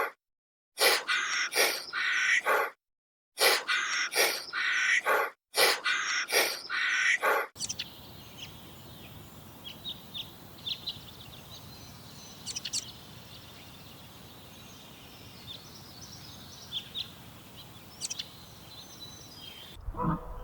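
An animal calling loudly in rapid bursts of several calls each, in short clips with brief silent gaps between them. After about seven seconds it gives way to a quieter outdoor background with scattered short, high bird chirps.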